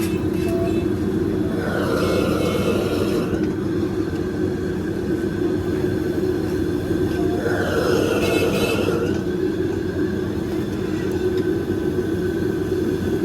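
Busy outdoor street-market ambience: a steady low rumble, with two brief higher-pitched sounds about two and eight seconds in.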